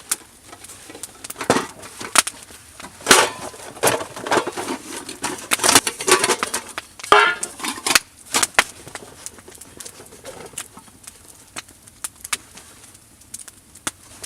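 Wood campfire crackling with many sharp pops, and louder crunching, rustling bursts in the middle stretch.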